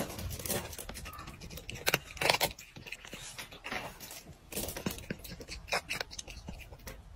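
A cat eating dry kibble, with irregular crunching and clicking as it chews the pellets.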